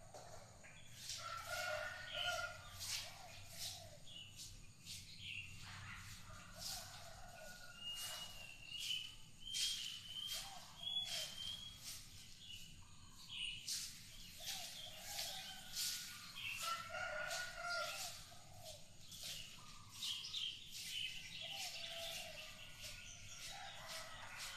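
Birds calling, with repeated short calls and higher chirps, and many sharp clicks throughout.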